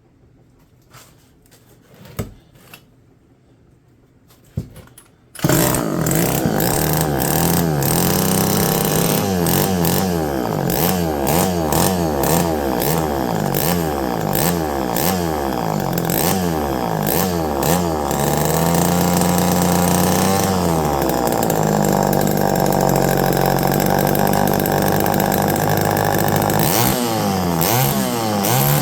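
Homelite EZ two-stroke chainsaw engine, running without its chain, starting suddenly about five seconds in after a few handling knocks. It is then revved up and down repeatedly, settles to a lower idle, and is revved again near the end. It is running with its cleaned air filter refitted, which the owner says makes it run a little richer.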